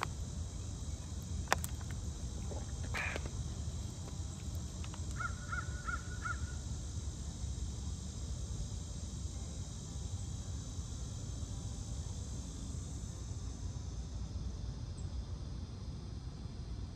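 Steady low outdoor background rumble, with a single sharp click about a second and a half in and a bird giving five quick, evenly spaced calls about five seconds in.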